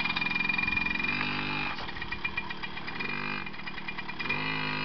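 Suzuki JR50 mini dirt bike's small two-stroke single-cylinder engine running at low speed, its note swelling three times as the throttle is gently opened and eased off again.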